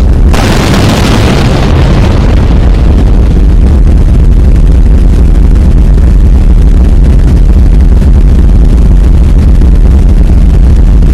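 Very loud, continuous deep rumble of the Hunga Tonga–Hunga Ha'apai volcanic eruption, with a rough hiss over it that is strongest in the first couple of seconds and thins out after that.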